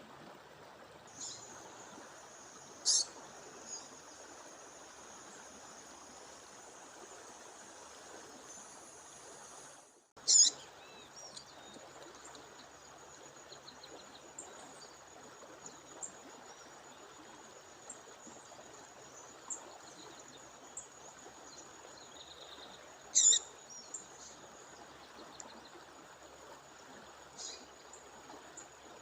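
Short, sharp bird calls of a female songbird over the steady rush of a waterfall stream, with three louder calls: about 3 seconds in, about 10 seconds in, and about 23 seconds in. A thin, steady high-pitched tone runs behind them.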